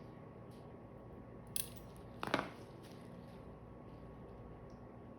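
Two brief metallic clicks from suturing instruments being handled, the second louder, over a faint steady hum.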